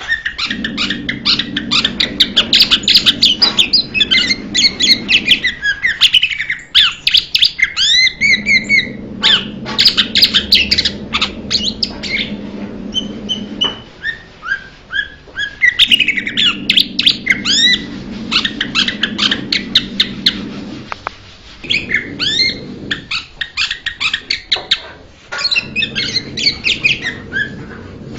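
Blue-winged leafbird singing: rapid, varied chirps and looping whistles in phrases of several seconds, broken by short pauses.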